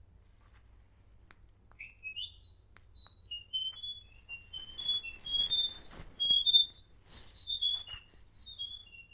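Zuru Pets Alive Chirpy Birds battery-powered toy bird chirping just after being switched on. It is a quick run of short, high chirps that starts about two seconds in and keeps stepping up and down in pitch.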